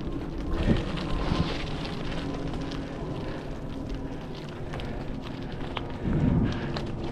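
Bicycle tyres rolling and crunching over a gravel path, with wind buffeting the microphone and two louder rumbles, one about a second in and one near the end.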